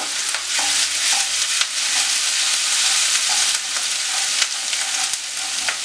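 Chopped ginger and garlic sizzling in hot oil in a non-stick wok as a spatula stirs them, a steady frying hiss with light clicks of the spatula on the pan. They are being sautéed until their raw smell goes.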